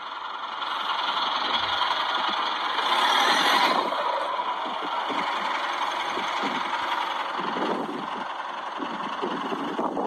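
A car's engine running with a steady rushing noise that swells about three seconds in, heard through a phone's speaker.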